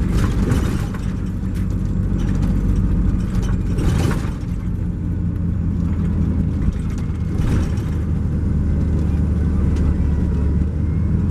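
Cummins ISX12 diesel engine of an MCI J4500 coach running as the coach drives, a steady low drone heard from inside the cabin. The drone's pitch shifts about four and a half seconds in.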